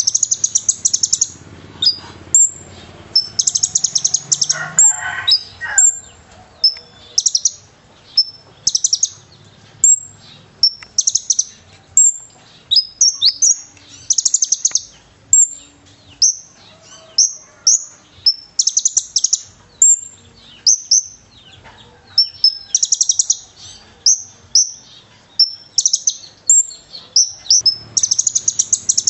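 Konin (sunbird) singing loudly in quick repeated phrases: high, fast buzzy trills mixed with sharp rising chirps, a new phrase every second or so. This is the bird's full 'gacor' song with borrowed cililin phrases.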